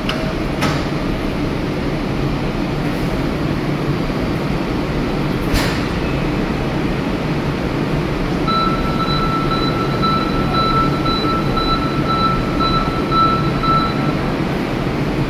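A train at a station platform, with the steady low rumble of its running equipment. A sharp clack comes about five and a half seconds in, and a steady high tone sounds for about five seconds from past the middle.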